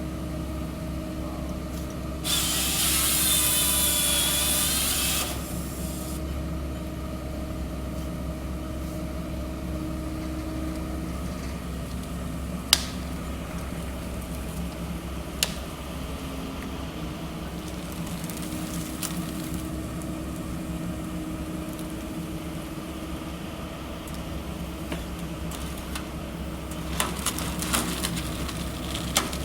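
The engine of a 0.25-class excavator carrying a forestry harvester head runs steadily. A loud hiss of about three seconds comes early, from the head's hydraulics or saw. Two sharp knocks follow mid-way, and a burst of crackling comes near the end.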